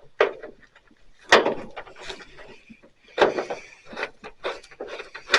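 A few sharp metal knocks and clunks as a bolt is put back into a truck's hood hinge and repair plate, the loudest about a second in. From about four seconds in there is a run of quick light clicks.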